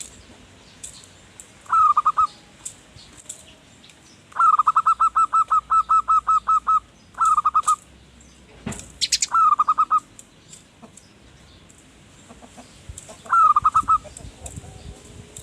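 Zebra dove (perkutut) cooing in bouts of quick, short falling notes, one long run of about a dozen notes among several shorter bouts. Small birds chirp high and faint in the background, and there is one sharp knock about halfway through.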